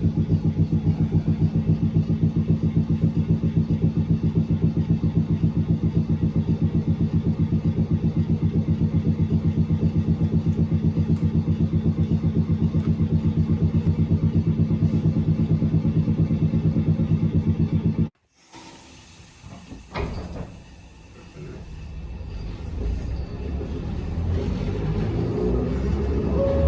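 A Manyo Line tram running with a loud, rapid, even low pulsing that cuts off suddenly about 18 seconds in. After that a much quieter rumble builds slowly, with a single click about two seconds after the cut.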